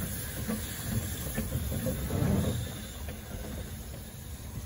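Narrow-gauge train running on the Ffestiniog Railway line: a low rumble with irregular knocks and clanks, loudest about two seconds in and easing off after.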